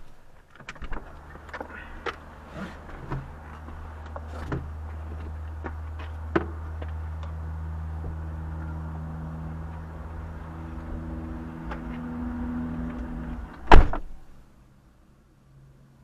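Car engine idling with a steady low hum inside the parked car's cabin, with scattered clicks and knocks. Near the end the hum stops and a single loud thump follows.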